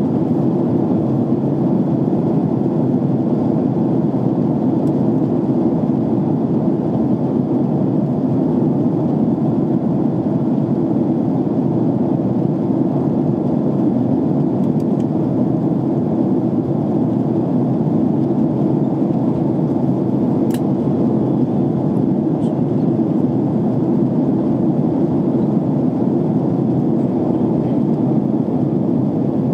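Jet airliner cabin noise in flight: steady, even engine and airflow noise, dull and low, with a faint tick or two.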